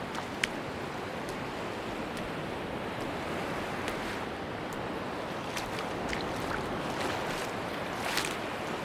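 Steady wash of sea surf on a beach, with slow footsteps crunching in sand about once a second.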